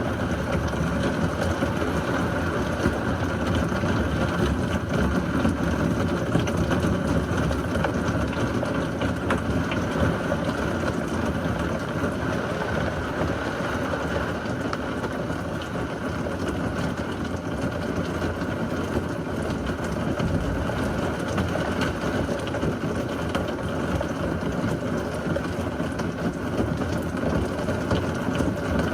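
Heavy thunderstorm rain pouring steadily: an even rushing hiss, with no thunderclap.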